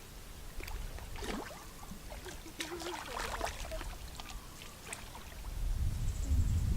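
Water splashing and sloshing in short, irregular bursts, with a low rumble rising in the last second or so.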